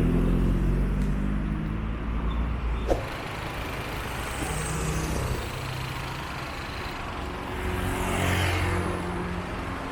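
Highway traffic going by at the roadside: a heavy engine hum that slides down over the first few seconds, then another vehicle rushing past about eight seconds in.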